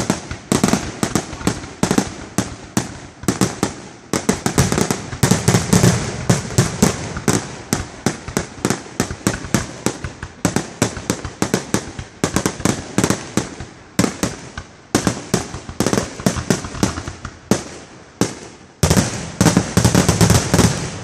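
Fireworks show barrage: aerial shells bursting in rapid succession, several loud bangs a second with crackle between them. A brief lull near the end is followed by another dense volley.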